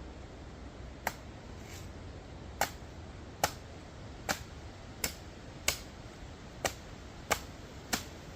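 Machete chopping into green jelly coconuts: about ten sharp strikes in an even rhythm, roughly one every three-quarters of a second.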